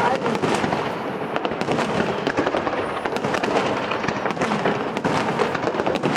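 Fireworks display going off: a dense, continuous crackle of many small bangs and pops with no pause.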